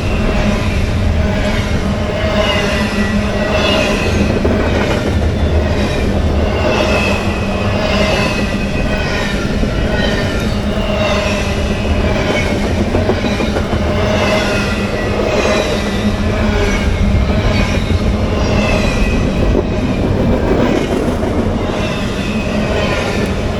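CSX freight train rolling past close by, its cars clacking over the rail in a steady rhythm that repeats about once a second, over a constant loud rumble.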